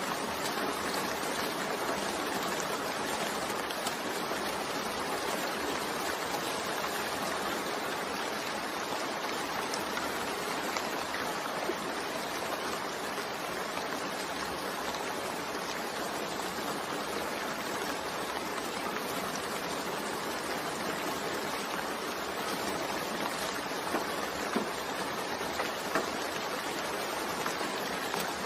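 Steady rain mixed with white noise: an even, unbroken hiss with a few faint drop-like ticks near the end.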